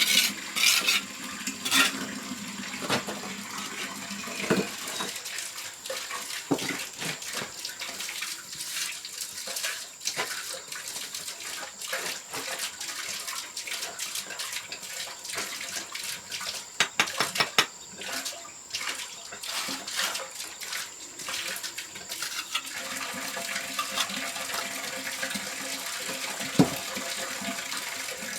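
Water splashing and trickling, with scattered sharp clicks and knocks.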